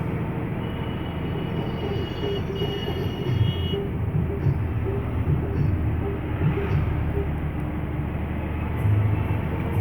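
BharatBenz truck's diesel engine running steadily under way, with road noise in the cab and irregular low knocks from the truck riding over the road.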